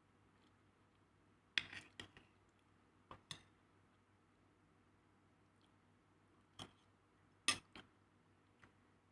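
A handful of short, sharp clinks and taps of kitchenware, the loudest about a second and a half in and again near the end, in an otherwise quiet room.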